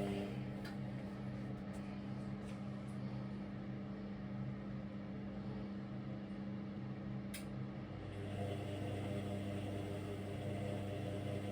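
Indesit Innex washing machine running with a steady motor hum. The hum changes about eight seconds in, and there is a short click a little before that.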